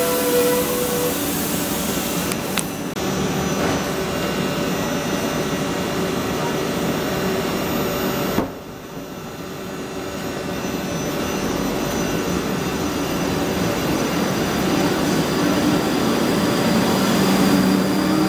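South Western Railway electric multiple unit passing close by, with a steady running rumble and hum from the carriages and wheels on the rails. There is a sharp click a couple of seconds in, and a sudden drop in the sound at about eight and a half seconds that builds back up. Near the end a hum rises in pitch.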